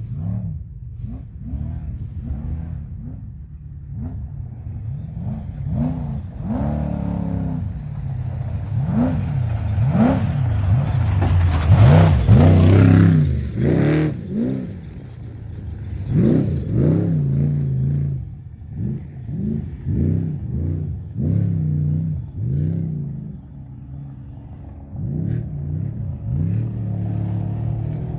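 Off-road race truck engine revving hard, its pitch rising and falling about once a second as the throttle is worked. It gets loudest about twelve seconds in, with a rush of tyre and gravel noise as it passes closest.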